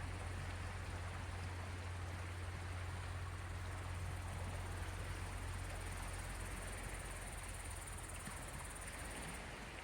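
Small sea waves washing steadily on the shore, an even hiss of water with a constant low rumble underneath.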